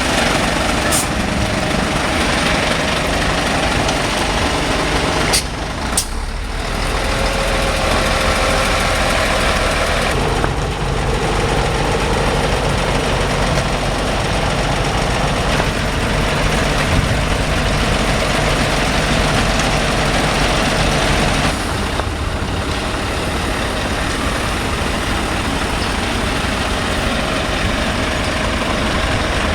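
Heavy truck diesel engines running at idle and low speed, with two short sharp sounds early on.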